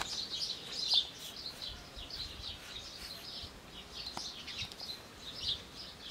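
Small songbirds chirping repeatedly in quick, high-pitched calls, with a couple of faint clicks.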